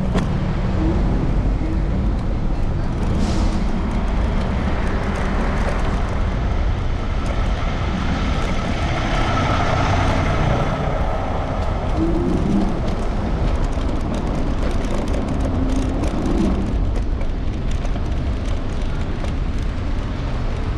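City street traffic with steady road rumble heard from a moving electric scooter, with a vehicle passing and swelling louder around the middle.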